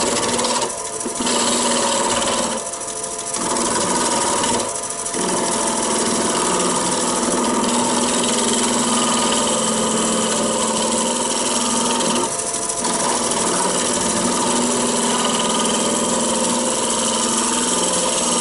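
Roughing gouge cutting a spinning blank of Irish elm on a wood lathe: a steady rough shaving noise over the lathe's hum, broken off briefly four times as the tool lifts from the wood. The blank is still somewhat out of round.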